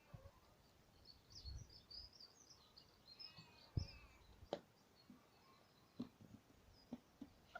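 Near silence, with faint high bird chirps in the first half and a few soft isolated clicks.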